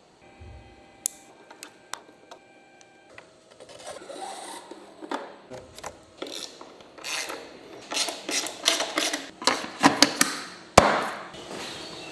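Hand-tool work on motorcycle parts: irregular sharp clicks, knocks and rubbing of metal and plastic pieces, getting busier and louder in the second half.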